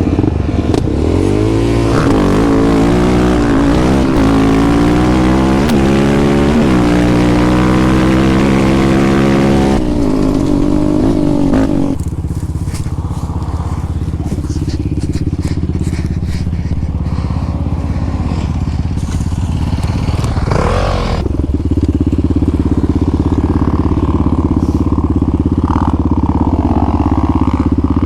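Off-road vehicle engine revving, its pitch climbing and dropping repeatedly for about ten seconds, then settling to a lower, steady run with one short rev about two-thirds of the way through.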